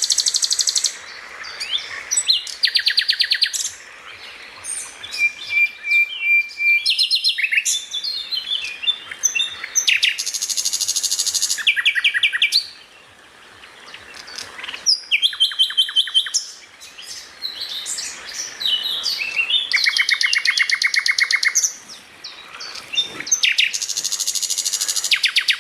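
Songbird song for training cage birds: bursts of very rapid, high-pitched trills, each a second or two long, come every few seconds, with varied shorter chirps and whistles between them.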